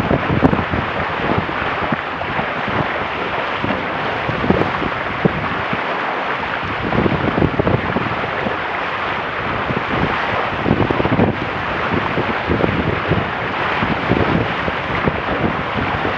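Wind buffeting the microphone over a steady rush of water along the hulls of a Weta trimaran under sail, with irregular low gusts.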